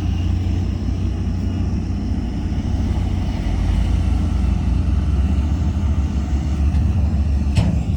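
Heavy construction machine's diesel engine running steadily with a deep, low rumble, and one sharp knock near the end.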